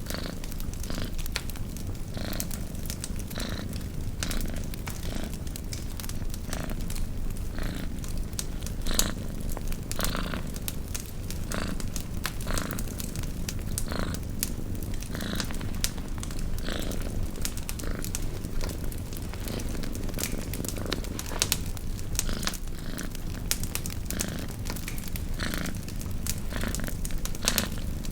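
A cat purring steadily, with a campfire crackling over it in frequent short, sharp clicks at irregular intervals.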